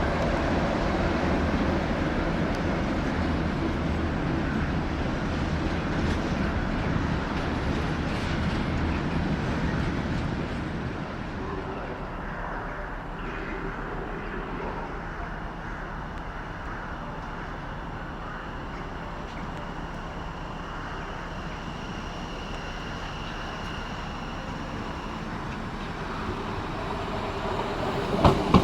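A train running over the rails through the station, its rumble fading about ten seconds in to a steady lower rail and station noise. A single sharp knock near the end is the loudest moment.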